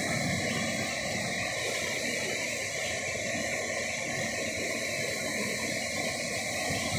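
Waterfall rushing steadily: water falling and pouring over the rocks.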